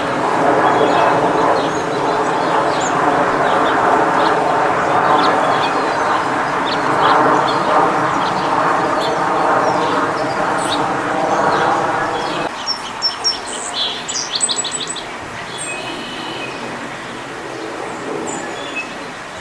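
Birds chirping over a loud, steady mechanical drone with several held tones, which cuts off abruptly about twelve seconds in. A run of loud, rapid bird calls follows.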